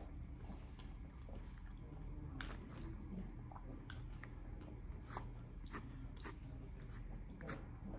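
A person chewing barbecue food close to the microphone: soft, irregular wet mouth clicks and smacks.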